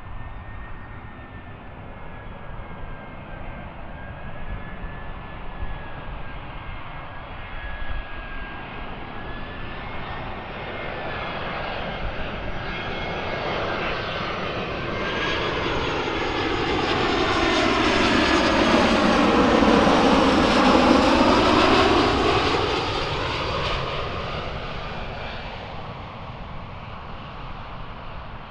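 Airbus A320-214 jet airliner's engines on landing approach: a steady whine growing louder as the aircraft passes, loudest about twenty seconds in, then fading away.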